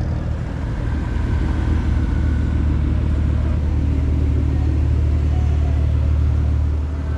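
Car engine running at a steady idle, a deep low rumble that holds even, dipping briefly near the end.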